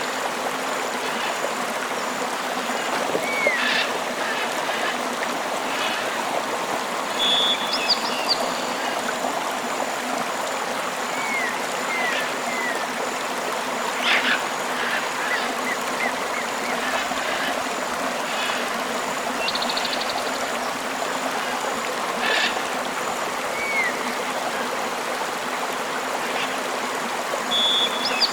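Tropical river flowing steadily, with birds calling now and then over the water: a few short rising chirps and brief quick trills.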